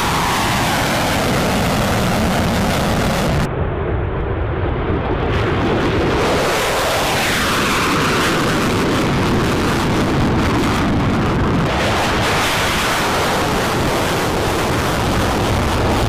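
Fighter jet engines running loud and continuous, with slow sweeping shifts in pitch as jets pass by. The sound turns briefly duller about three and a half seconds in.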